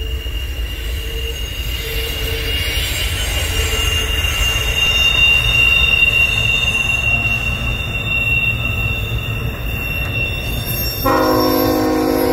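CSX double-stack intermodal freight train passing behind a diesel locomotive: a steady low rumble with a steady high-pitched wheel squeal. About eleven seconds in, the locomotive's multi-chime air horn starts blowing a steady chord.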